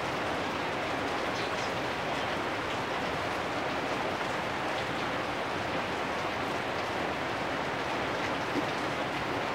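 Steady rain falling on corrugated metal roofs, a constant even hiss with faint scattered drip ticks.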